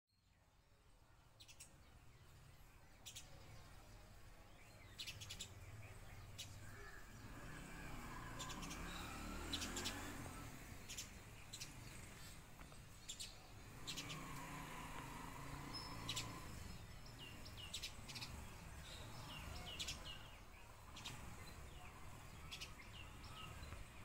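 Small songbirds chirping: short, sharp chirps come every second or two, over a low, steady background rumble.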